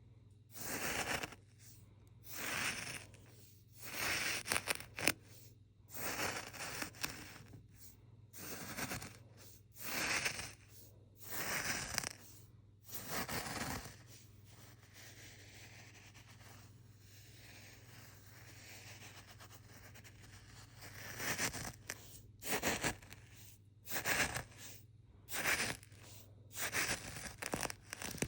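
Sand shifting inside a straw, a rustling swish about every second and a half. About halfway through it gives way to a fainter, steady rustle for several seconds, and the swishes start again a few seconds before the end.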